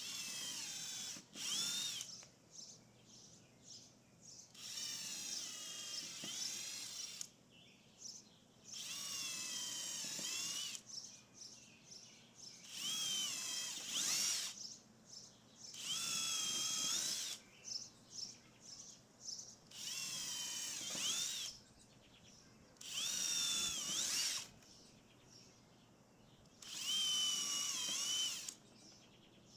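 Power drill run in repeated bursts of one to two seconds, about ten times, its motor whine dipping and rising in pitch as it comes under load, with short pauses between runs.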